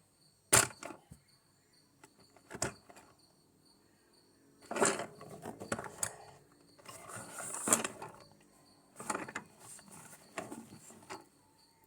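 Objects being handled on a work surface: a few sharp clicks, then bursts of rustling and scraping.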